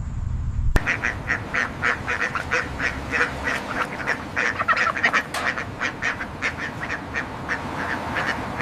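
Ducks calling: a long run of short, rapid calls, several a second. Under a second in, a low rumble cuts off abruptly as the calls begin.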